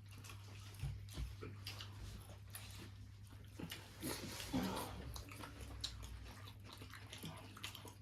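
People eating a meal, with faint chewing and small scattered clicks, over a steady low hum.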